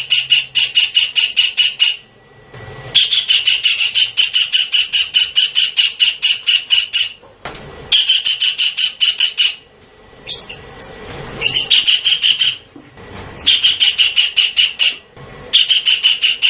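Javan kingfisher calling: a loud rattling series of rapid, evenly repeated notes, about six a second, in bouts of a few seconds with short pauses between. There are a few different squealing notes about ten seconds in.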